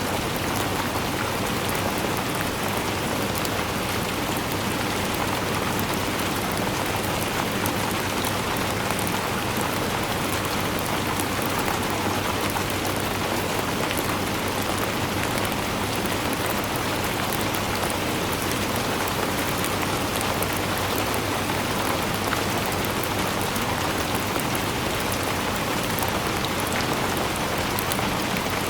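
Steady rainfall, a dense even hiss of drops striking a surface with fine patter, unchanging throughout.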